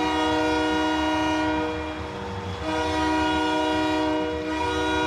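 Arena goal horn sounding after a goal, a loud steady multi-tone chord in long blasts. It breaks off about a second and a half in and starts again about a second later.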